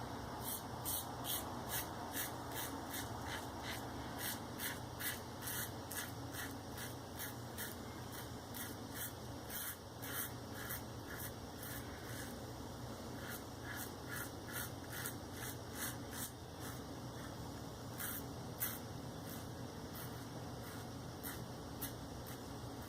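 Maggard V3A safety razor with a Shark Super Chrome blade scraping through lather and stubble on the face: short scratchy strokes in runs of about one to two a second, with a few brief pauses between runs.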